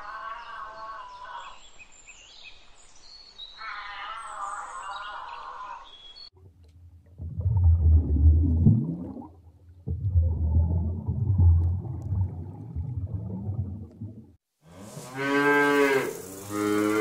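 A wavering high-pitched call, heard twice in the first five seconds. Then a deep rumbling in two long stretches through the middle, and cattle mooing loudly twice near the end.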